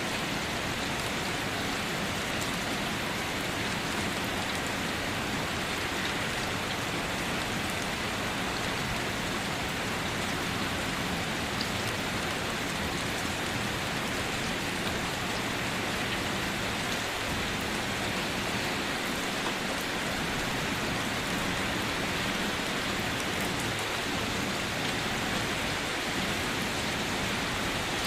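Steady rainfall, an even hiss of rain with faint scattered drops pattering on surfaces, with no thunder.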